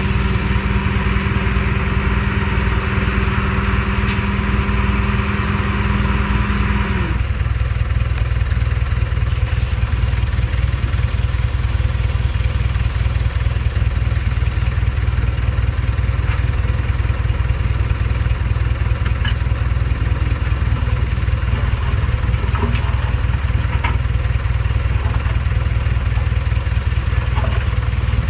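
Heavy diesel construction machinery running steadily with a deep, even engine rumble. For the first seven seconds a steady whine and hiss sound over it, then cut off.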